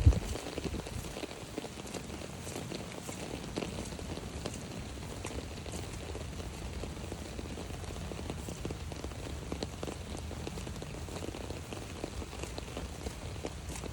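Rain pattering steadily on an umbrella overhead, a dense stream of small drop ticks. A single low thump right at the start.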